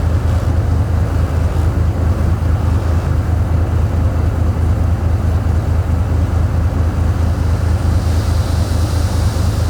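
Heavy diesel engine of construction machinery running steadily with a rapid low throb. A faint hiss comes in near the end.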